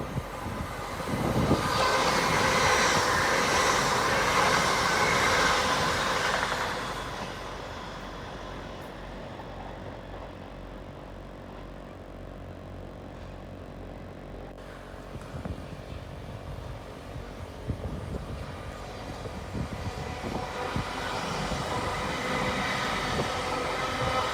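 A train running through the station, loudest in the first several seconds and then dying away, with train noise building again near the end.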